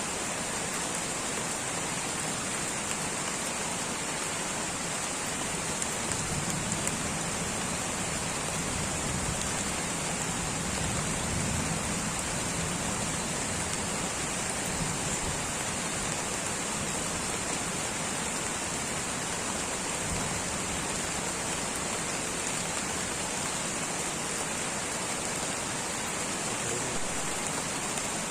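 Light rain falling steadily in a tropical rainforest, an even hiss of many drops with a little more low rumble for a stretch near the middle.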